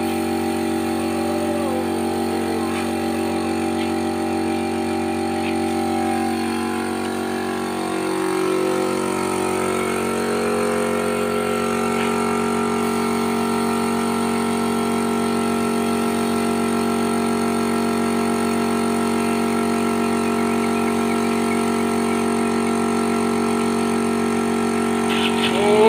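A motor running steadily with an even hum, its pitch shifting briefly about eight seconds in.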